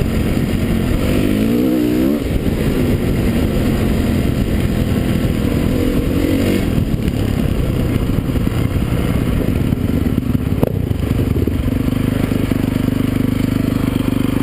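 Motocross dirt-bike engines revving, the pitch climbing and dropping repeatedly, then settling into a steadier held note over the last few seconds. A single sharp click sounds about two-thirds of the way in.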